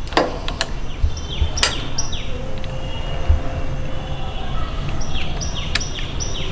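A bird singing runs of quick downward-sweeping high notes, one run about a second in and another near the end, over a steady low rumble. A few sharp clicks come from handling the motorcycle battery's wire terminals.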